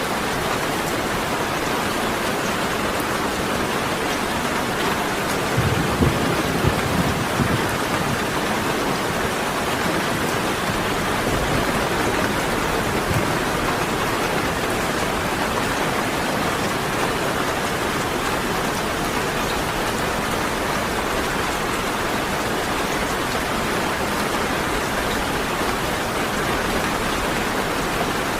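Steady rain falling, with a short low rumble of thunder about six seconds in.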